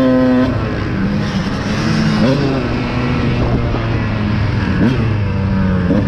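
Dirt bike engine running at fairly steady revs, dropping slightly about half a second in, with a few short blips of the throttle.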